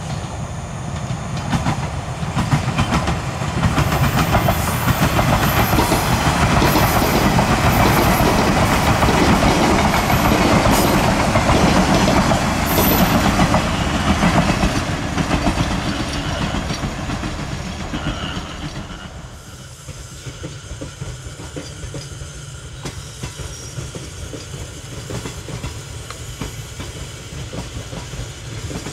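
A train passing, its wheels clicking over the rail joints. The noise builds over the first few seconds, stays loud, then falls away about nineteen seconds in, leaving a lower rumble.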